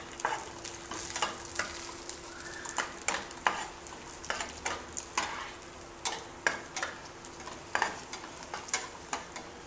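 Cashews and raisins frying in ghee in a nonstick pan with a light sizzle. A spatula scrapes and taps against the pan about every second or so as they are stirred.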